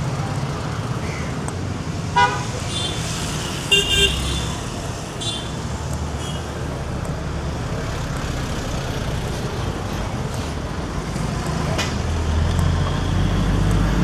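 Street traffic: a steady rumble of passing motor vehicles, with short vehicle-horn beeps about two and four seconds in. The engine rumble grows louder near the end.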